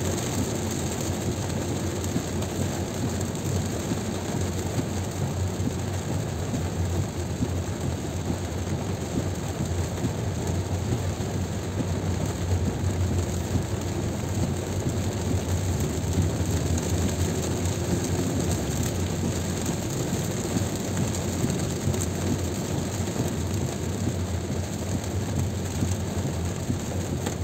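Car driving on a highway in heavy rain: steady road and tyre noise on wet pavement mixed with rain on the car.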